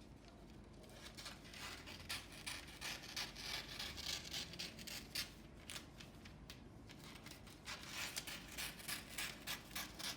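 Scissors cutting paper in quick, repeated snips, in two runs with a short pause midway.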